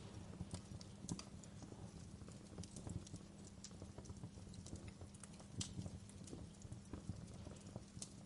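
Wood fire crackling, with irregular sharp pops and snaps, the strongest about a second in and at about five and a half seconds, over a low steady rumble.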